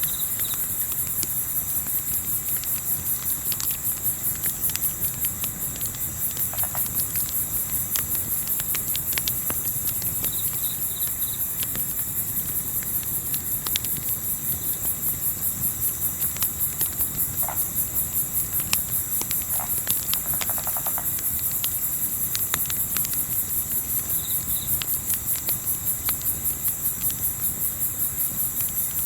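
Night insects chirping in a steady, rapid high trill, with the scattered sharp pops and crackles of a campfire over a low rumble of wind. A few short chirps come near the start, around ten seconds in and again near the end.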